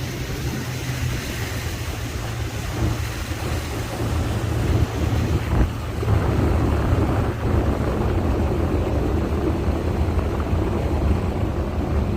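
Tour boat's motor running under way, with wind buffeting the microphone and water rushing past the hull. The motor gets louder about six seconds in.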